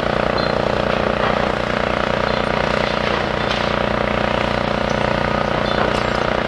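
Heavy diesel engine of demolition machinery running steadily with a low, even throb.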